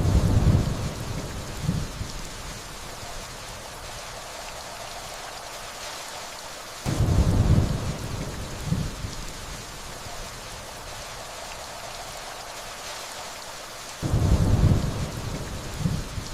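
Steady rainfall with low thunder rolling in three times, about seven seconds apart. Each roll starts suddenly, swells again a second later and dies away over a couple of seconds.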